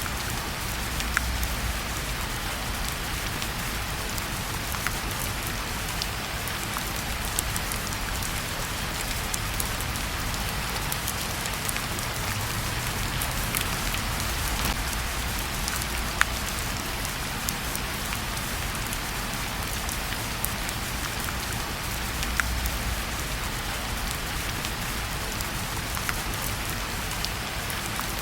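Steady rain falling, with scattered sharp clicks standing out from the even hiss of the downpour.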